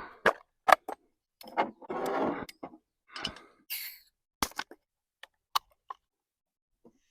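A series of short clicks and knocks mixed with brief rustles and hissing, each separated by dead silence: handling of camp cooking gear and a packaged ready meal.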